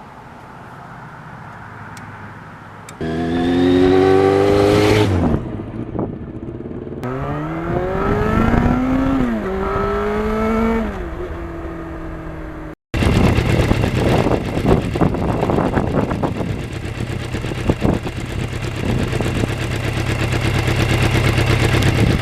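Yamaha FZR motorcycle's four-cylinder engine accelerating hard, rising in pitch three times with a drop at each upshift. Then it runs steadily at speed, with heavy wind buffeting over the engine.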